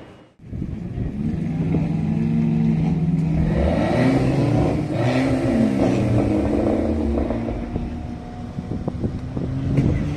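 Mercedes-Benz C63 AMG's V8 engine running at low speed, its revs rising and falling in the middle, with a few short sharp cracks near the end.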